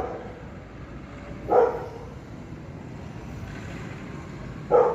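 A dog barking three times, single barks spaced a second or more apart, over steady low background noise.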